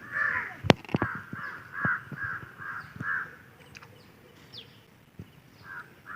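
Crows cawing in a quick run of about seven caws, then again near the end, with a few sharp clicks or knocks, the loudest one under a second in.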